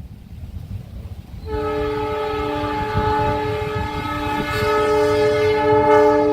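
Train horn sounding a long, steady multi-tone chord that starts about a second and a half in, over a low rumble.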